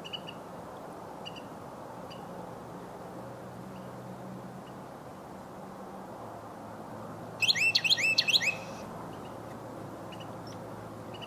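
Carolina wren singing: a loud burst of about five quickly repeated sweeping phrases, about seven seconds in, preceded by a few faint high chip notes. A steady low hum runs underneath.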